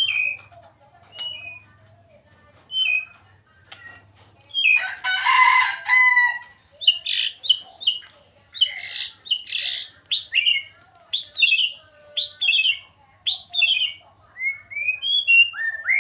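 White-rumped shama singing: varied whistled phrases, sparse at first, then a loud harsh rasping burst about five seconds in, followed by a fast run of loud, varied phrases.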